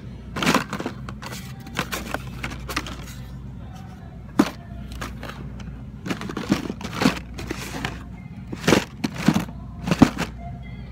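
Irregular clacks and knocks of blister-packed die-cast toy cars being handled and shuffled in a store bin, over a steady low hum.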